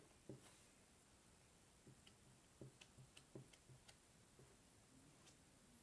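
Near silence, with faint, irregular light clicks and taps scattered through it.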